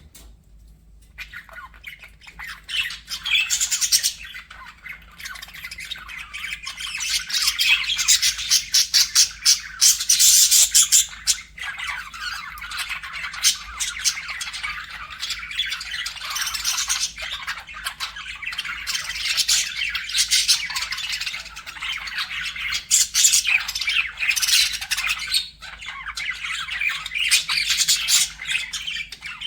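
Budgerigars chattering, a dense run of warbling chirps and harsh squawks that builds up after a near-quiet first second and peaks near the middle.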